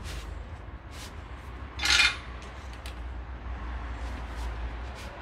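Metal wrench clinking and scraping on a loose front-suspension bolt as it is tightened, a few sharp clicks with one short louder rattle about two seconds in, over a low steady hum.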